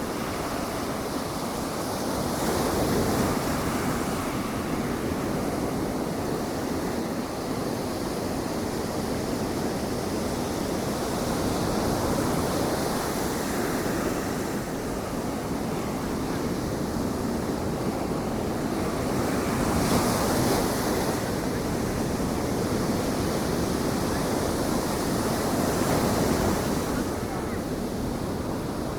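Ocean surf washing onto the beach in a steady rush that swells about four times as waves break, with wind rumbling on the microphone.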